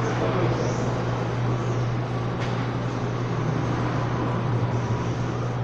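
Steady low mechanical hum under a constant background noise, with one brief click about two and a half seconds in.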